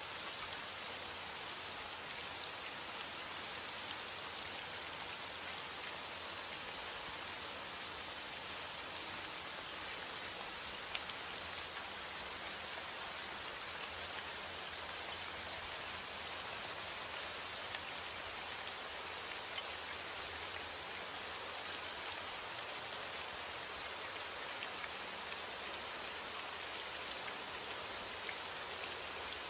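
Steady heavy rain: a dense hiss of rainfall with many small drops ticking on a surface.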